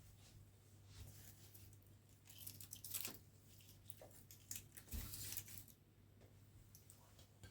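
Faint rustling, crackling and clicking handling noises, loudest about three and five seconds in, over a low steady hum.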